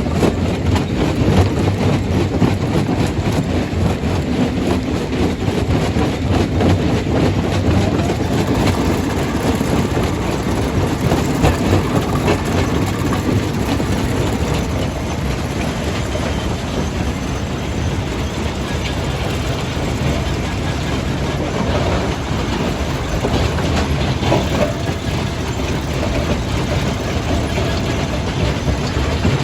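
Jaw crusher running under load, crushing stone: a loud, continuous rumble with dense rattling and grinding of rock.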